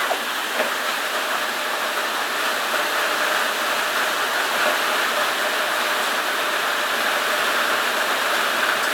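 Heavy storm downpour: a steady, even hiss of rain pouring down, with a faint tick or two.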